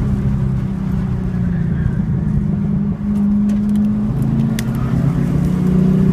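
A 2014 Camaro SS 1LE's 6.2-litre V8, heard from inside the cabin, running in third gear at around 3,300–4,000 rpm through a corner. There is a brief dip about three seconds in, then it pulls louder near the end as the car accelerates out.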